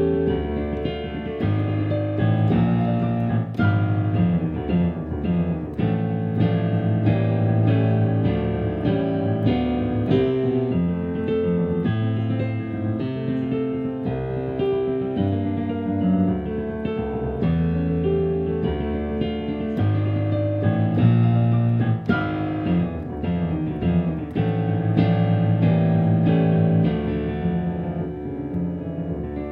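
Solo piano playing a fast, busy passage of quickly repeated notes over a steady bass line.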